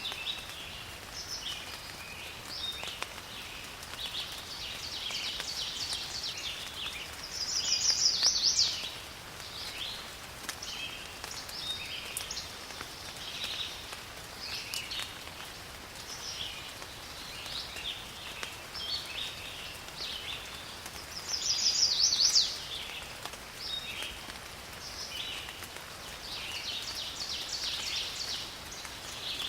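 Forest ambience of many birds chirping and calling over a faint, steady rain hiss, with two loud, fast trilled calls, one about a quarter of the way in and one about three quarters in.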